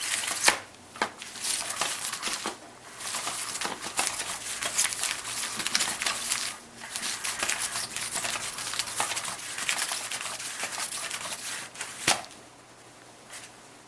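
Continuous rustling and crinkling of a Catch Me If You Can cat toy's cover sheet as its wand sweeps underneath and cats paw and pounce on it, with many small taps and clicks. It stops with a sharp click about twelve seconds in.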